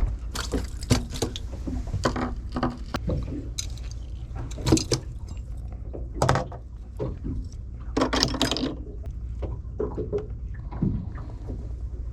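Handling noise aboard a small fishing boat: irregular knocks, rattles and water splashes over a steady low rumble.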